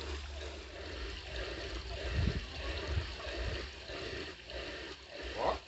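Water trickling and splashing in a fish pond.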